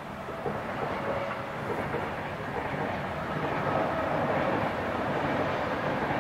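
A passing train: steady wheel and running noise on the rails that grows louder over the first few seconds and then holds.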